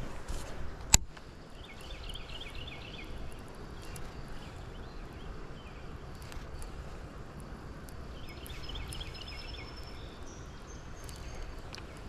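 Small birds singing in short, quick chirping phrases, twice, over a steady outdoor background. A single sharp click about a second in is the loudest sound.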